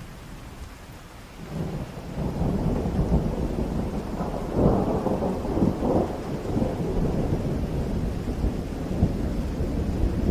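Thunder rolling over rain: a low rumble builds about a second and a half in, is loudest around the middle, and keeps rumbling on.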